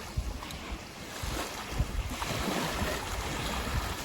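Sea and waves with wind buffeting the microphone in irregular low thumps.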